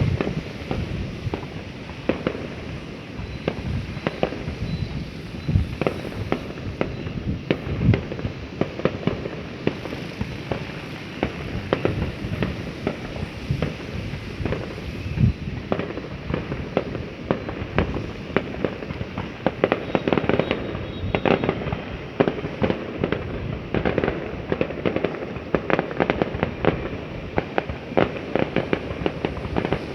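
Fireworks going off in a dense, continuous barrage of overlapping bangs and crackles, many a second, with some louder bangs scattered through.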